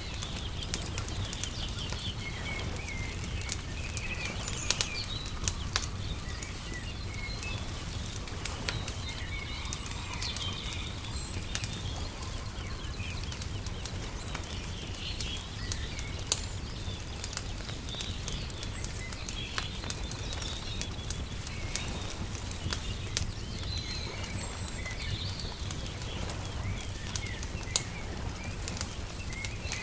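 Wood fire crackling with frequent sharp pops, while small birds chirp and twitter throughout over a steady low rumble.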